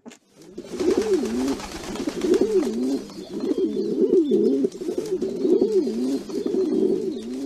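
A flock of feral rock pigeons cooing: many overlapping, repeated rising-and-falling coos, starting about half a second in.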